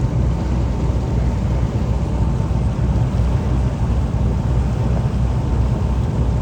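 A boat's engine running, heard as a steady low rumble under an even hiss.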